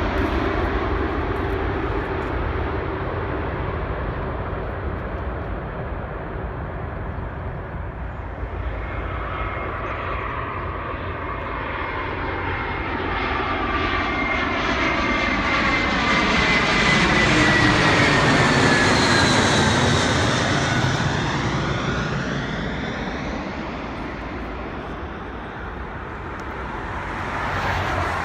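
Jet airliner passing close by: its engine noise swells to a peak about two-thirds of the way through, with whining tones that fall in pitch as it goes past, then dies away.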